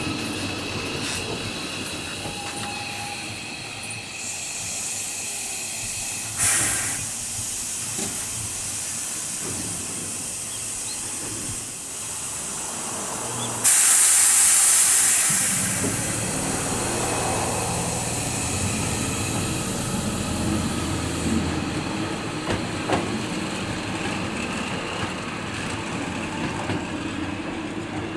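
Nose Electric Railway 7200 series electric train standing at a station platform with a steady hiss of air, a short puff of air, then a loud sudden blast of compressed air about halfway through that fades over a couple of seconds. A low rumble from the train follows in the second half.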